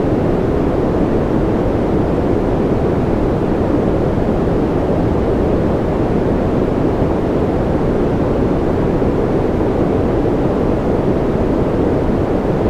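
Steady white-noise ambience: an unbroken, deep-toned rushing hiss with most of its weight low and little at the top, without any change or separate sounds.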